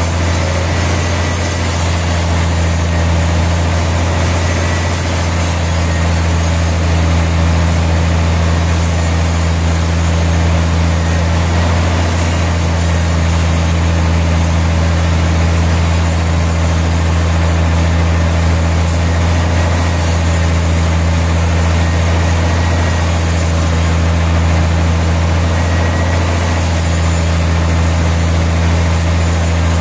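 Sawmill machinery running steadily: a constant low engine or motor hum with a hiss over it, unchanging throughout.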